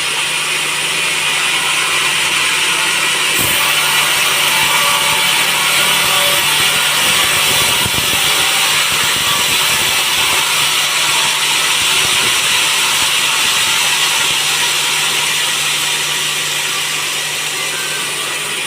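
Sawmill machinery running steadily: a loud, even mechanical noise with a low hum underneath and a faint click a few seconds in.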